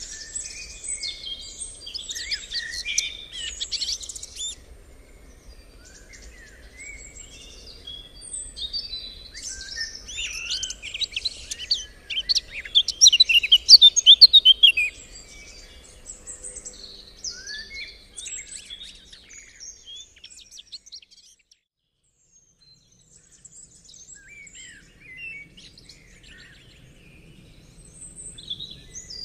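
Several songbirds chirping and singing together, busiest near the start and again in a loud burst of trilling about ten to fifteen seconds in, then thinning to scattered calls with a brief lull.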